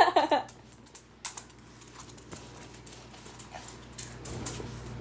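Dog licking close up: scattered faint clicks and wet smacks, after a short pitched vocal sound that ends in the first half second.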